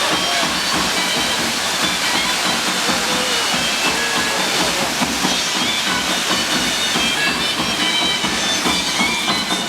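A steady, loud hiss with short scattered tones mixed in.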